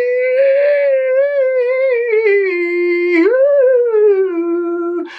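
A person's voice holding one long sung tone as a resonance exercise, the pitch wavering around a fairly high note, dipping and swooping up about three seconds in, then sliding lower. It breaks off near the end with a quick breath.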